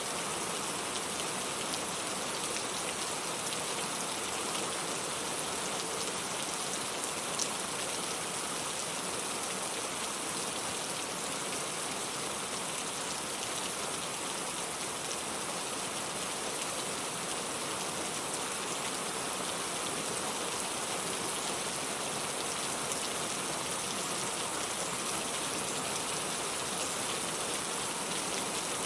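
Steady rain falling: an even hiss dotted with fine ticks of individual drops, one drop a little louder about seven seconds in.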